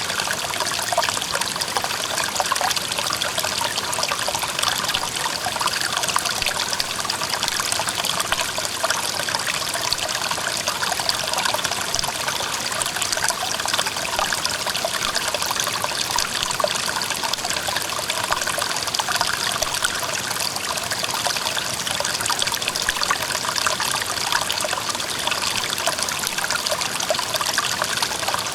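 Clear mountain stream running over rocks: a steady babbling and trickling of water.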